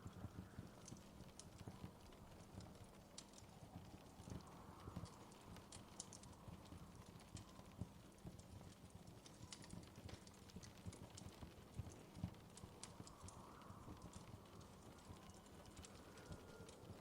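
Wood fire crackling faintly: irregular small pops and snaps over a low, steady rumble.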